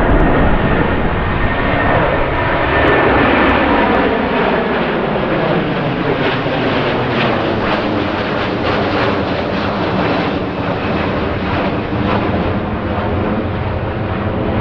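Jet airliner passing close by, its engine noise falling in pitch over the first few seconds and then settling into a steady rumble.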